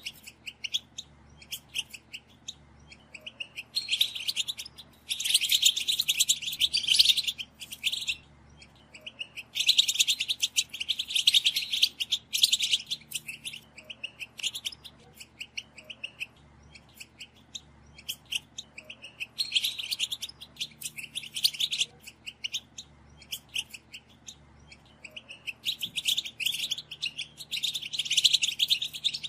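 European goldfinches calling together in rapid twittering chatter. The calls come in dense bursts of a few seconds, with scattered single notes between them.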